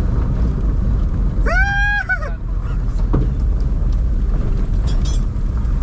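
Isuzu D-Max pickup truck on the move: a steady low rumble of wind and road noise. About one and a half seconds in, a short, high-pitched call rises, holds and falls away.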